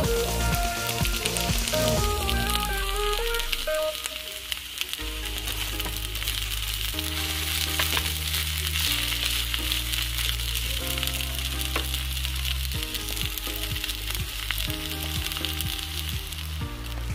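Fried rice with spinach sizzling in a nonstick pan as it is stirred and tossed with a spatula, with background music playing over it: a steady hiss under a melody and a stepping bass line.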